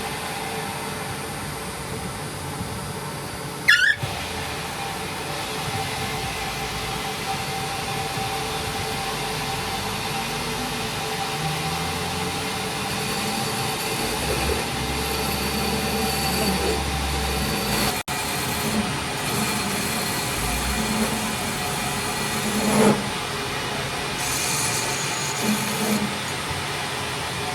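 A metalworking machine runs steadily with a thin, even whine over a mechanical hiss. There is a single sharp clank about four seconds in, the sound cuts out for an instant near the middle, and a few light knocks come near the end.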